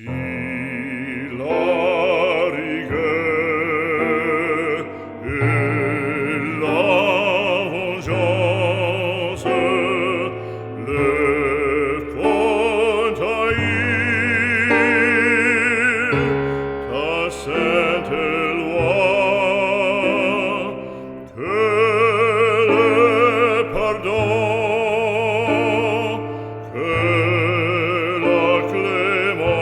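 Operatic solo voice singing with strong vibrato over orchestral accompaniment, in long held notes.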